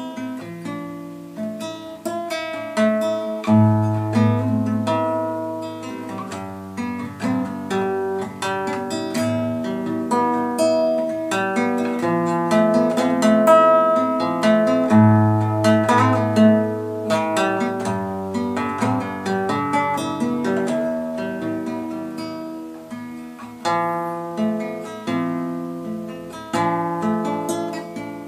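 Instrumental folk music: acoustic guitar plucking and strumming chords over deep held bass notes, with no singing.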